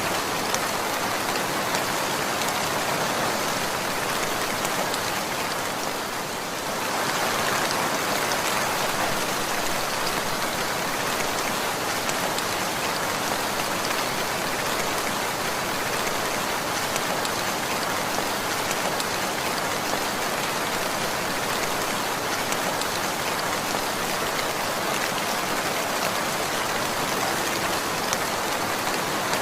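Steady rainfall: a dense, even patter of raindrops on a surface, easing briefly about six seconds in.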